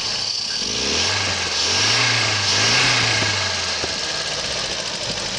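A 1968 Volvo engine with twin carburetors is running in the open engine bay. Its speed rises about a second in, wavers, and settles back down near four seconds, as if the throttle were opened gently.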